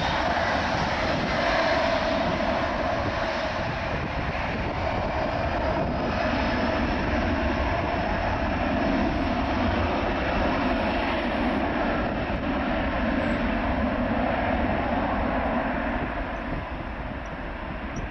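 Boeing 737-500's CFM56 jet engines at takeoff power, a steady roar that starts to fade near the end as the airliner moves away.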